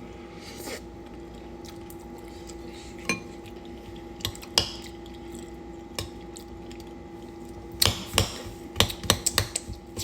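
Eating utensil clinking and scraping against a bowl of beans and cornbread: a few separate taps, then a quick run of clinks in the last couple of seconds, over a steady hum.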